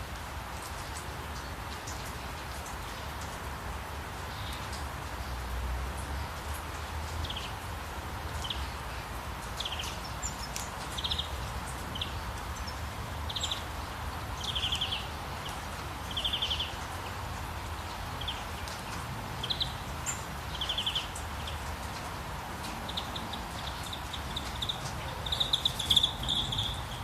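Short, high trilled bird calls repeating every second or two, loudest and quickest near the end, over a steady rush of flowing water.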